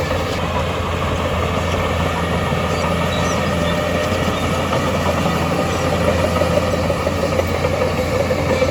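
Heavy diesel earthmoving machinery running steadily, a constant low engine drone with no change in pace.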